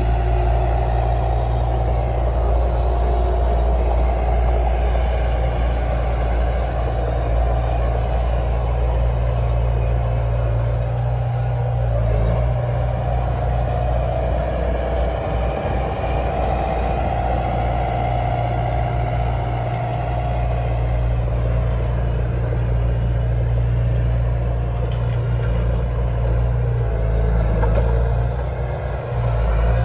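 Heavy diesel earthmoving engine running steadily, a continuous low hum that eases and picks up slightly a couple of times.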